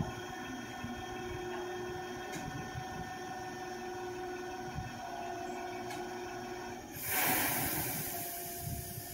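Meitetsu electric train standing at the platform, its on-board equipment humming steadily. About seven seconds in comes a sudden loud hiss of released air that fades over a couple of seconds.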